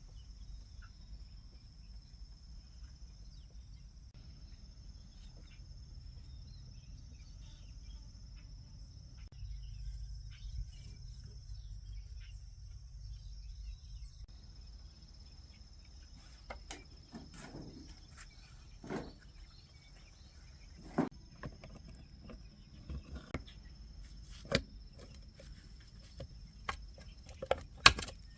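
Insects chirping steadily over a low rumble. From about halfway in come sharp, irregular knocks, a few seconds apart at first and louder and closer together near the end.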